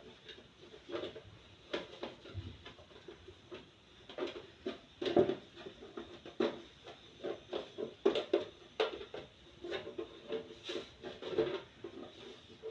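Irregular light knocks and clatter of fridge parts being handled and scrubbed clean, with several sharper knocks close together in the middle.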